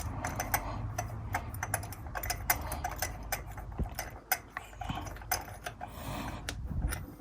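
Light, irregular metallic clicking, several clicks a second, as a loosened spark plug is turned out of the cylinder head by hand.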